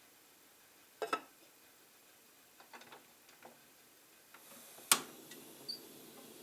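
Scattered sharp clicks and light taps of small hard objects: a double click about a second in, a few soft taps around three seconds, and a louder sharp click near five seconds.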